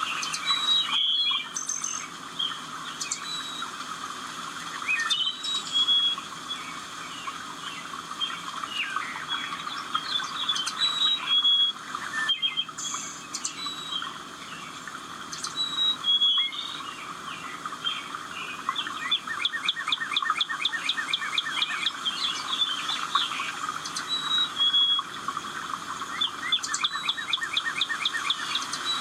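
Several songbirds singing and chirping together: overlapping short whistled notes and chirps, with a fast trill in the second half.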